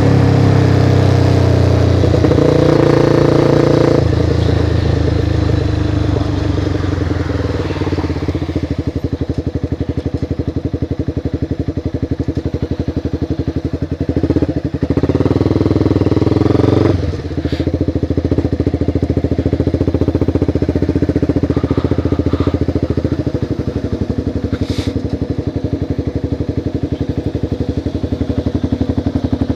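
Motorcycle engine dropping in pitch as it slows over the first few seconds, then running steadily at low revs. It gets louder briefly between about fourteen and seventeen seconds in, then settles into an even, pulsing idle-like run.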